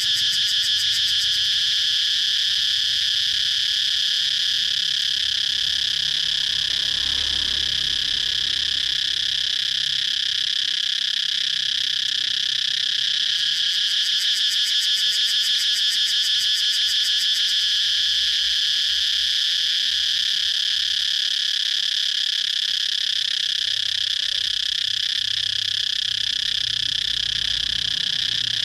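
Cicadas buzzing in a continuous high-pitched drone, with a fast pulsing rhythm that comes through near the start and again about halfway.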